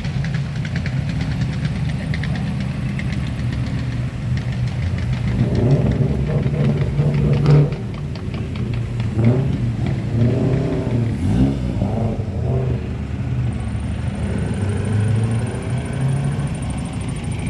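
Car engine idling with a steady low drone, revved several times in the middle, its pitch rising and falling with each blip of the throttle.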